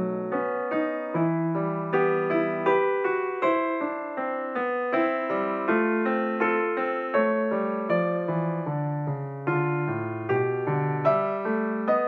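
Background piano music: single notes and chords struck at an unhurried pace, each ringing and fading.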